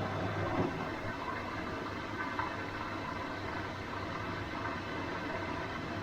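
Washing machine running: a steady low hum under an even wash of noise, with faint soft swishes.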